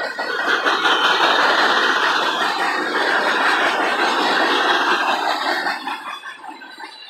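Loaded freight cars of a manifest train rolling past on steel wheels: a loud, steady rush and rattle of wheels on rail. It swells about a second in and fades near the end.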